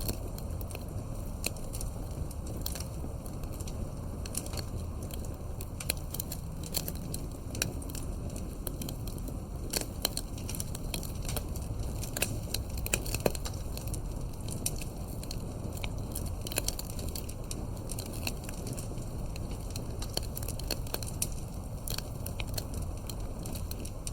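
Wood fire crackling and popping, sharp irregular snaps over a steady low rumble of burning, a few louder pops now and then.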